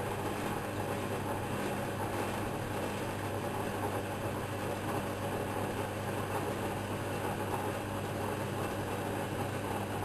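Whirlpool washing machine running steadily: an even motor hum under a constant whirring of the turning drum, with no pauses or changes.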